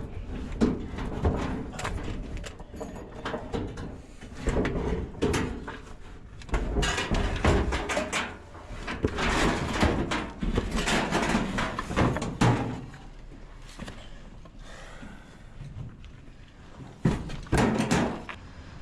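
Irregular knocks, bangs and clatter of hard objects being handled and moved, in loud clusters with quieter gaps between.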